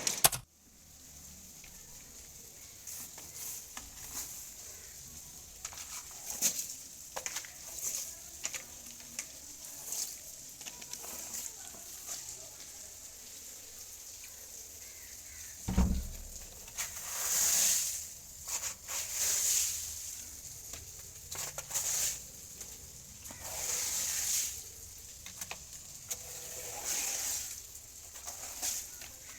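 Storm patter: scattered ticks of falling drops or hailstones over a steady hiss, with gusts of hiss that swell and fade every couple of seconds in the second half, and one dull thump about 16 seconds in.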